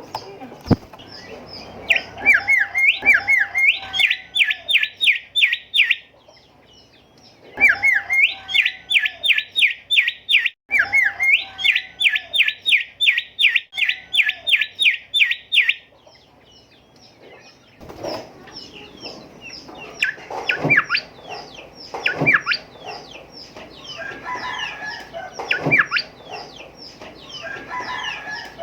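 Golden whistler (kancilan emas) singing: three runs of fast, repeated rising whistled notes, about four or five a second, with short pauses between. In the second half these give way to looser, varied sharp calls.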